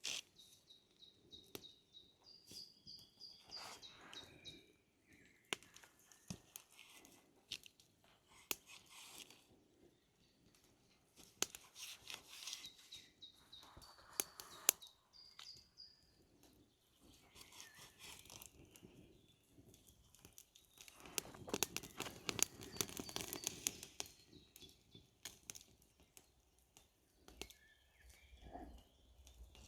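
Faint outdoor sounds: scattered small clicks and crackles, with rustling or crunching bursts now and then, the loudest about 21 to 24 seconds in. Short high bird chirps come and go over them.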